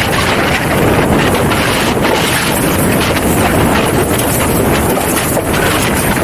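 Loud, steady wind noise on the microphone with water rushing past the hulls of a Hobie 16 catamaran sailing fast in strong wind and chop.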